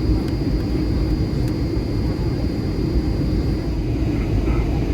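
Boeing 757-200 cabin noise on the descent for landing: a steady low rumble of engines and airflow, with a faint steady high whine.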